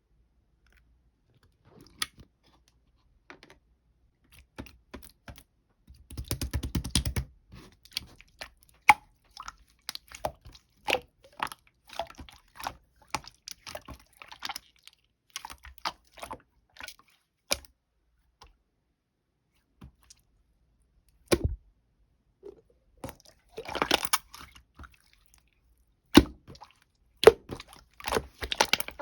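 Irregular close-up crunching and clicking, with denser bursts of crackling a few times.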